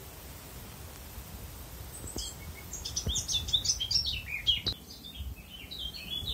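A songbird singing one rapid phrase of many short, high, falling notes. It starts about two seconds in.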